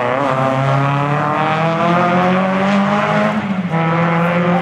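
Rally car engine pulling hard under acceleration, its pitch rising steadily, with a drop for a gear change about three and a half seconds in before it runs on.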